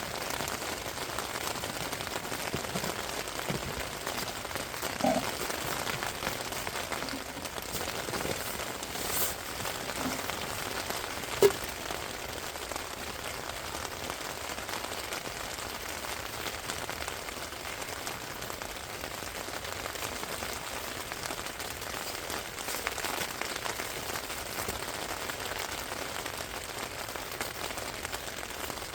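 Steady rain falling in a forest, an even hiss with a few louder single drops or knocks, the sharpest about eleven seconds in.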